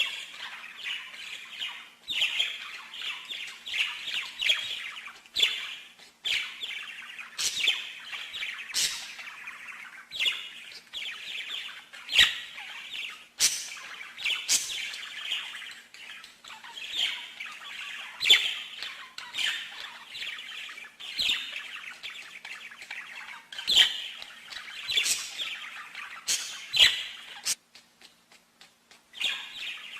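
A songbird singing a long, continuous rapid warbling song, broken every second or two by sharp loud notes, with a brief gap near the end. A faint steady hum lies underneath.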